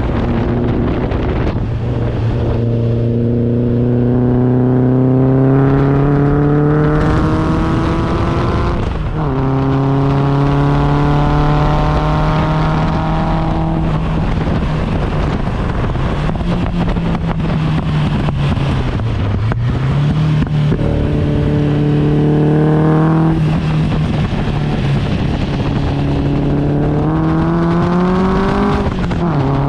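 Engine of a homemade Locost kit car heard from the open cockpit, revving hard on track. Its pitch climbs and drops sharply at each upshift, about nine seconds in and again near the end. Mid-way it sags and picks up again, all over a steady rush of wind and road noise.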